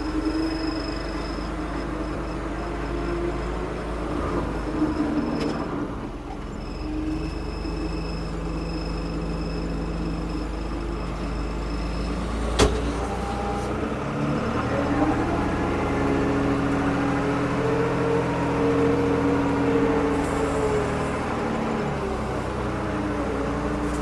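Diesel engine of a 1975 Ford 550 backhoe running steadily. Its pitch rises about halfway through and eases back down near the end. There is a single sharp knock just past the middle.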